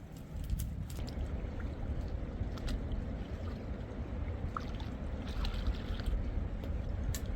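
Wind buffeting the microphone in a snowstorm: a steady low rumble that sets in about a third of a second in, with a few faint clicks over it.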